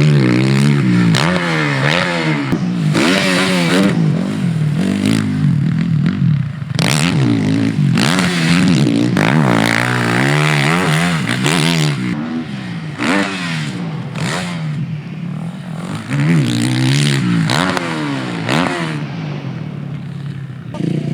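Yamaha YZ450F four-stroke motocross bike ridden around a track, the engine revving up and dropping off again and again through the gears and corners, with occasional clatter and scraping.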